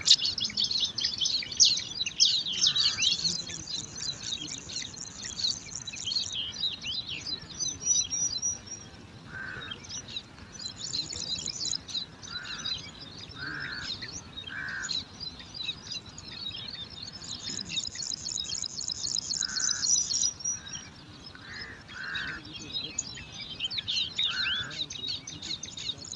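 Bar-winged prinia nestlings begging with dense, high-pitched chirps and buzzy trills, in bouts that swell and fade. Short lower calls recur every second or two.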